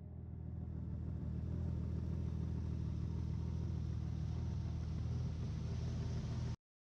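A vehicle running steadily: a low, even engine and road rumble with no revving. It fades in just after a cut and stops abruptly near the end.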